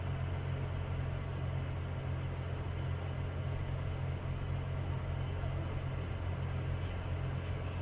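Steady low drone of a car driving, engine and road noise, with no impact.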